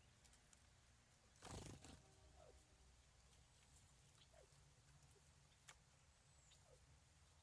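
Near silence, broken by a brief faint burst of noise about a second and a half in and a single faint click later on.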